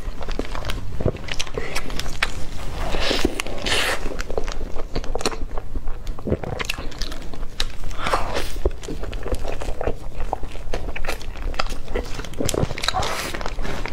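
Close-miked biting and chewing of a soft bun, full of wet, crackly mouth clicks throughout.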